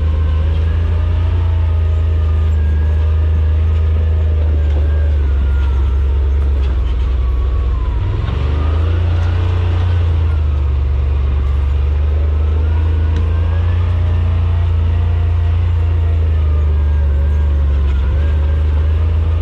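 Side-by-side UTV's engine running steadily while driving a rough trail, its pitch rising and falling as the throttle changes.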